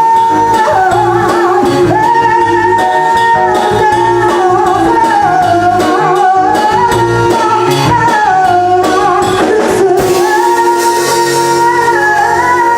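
Live soul-pop band playing: keyboard, electric bass and drum kit under a melody line. About ten seconds in the bass and drums drop out, leaving held keyboard chords.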